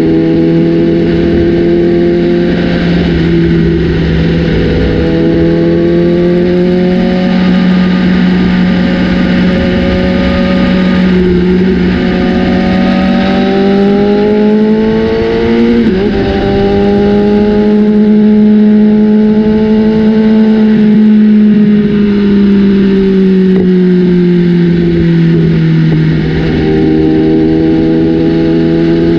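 BMW S1000RR inline-four engine running loud through an aftermarket Austin Racing exhaust, its pitch climbing and falling slowly over several seconds, with a short break about halfway through before it climbs again and then eases off.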